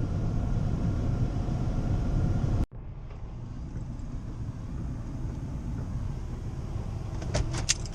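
Vehicle running with a steady low rumble that cuts off abruptly about two and a half seconds in, followed by a quieter steady rumble and a few sharp clicks near the end.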